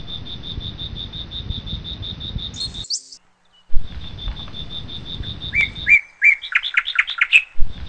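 Birds chirping in trees: a high, rapid, evenly pulsed trill, then a burst of quick rising chirps about two-thirds of the way through, over a low rumble. The sound cuts out for nearly a second near the middle.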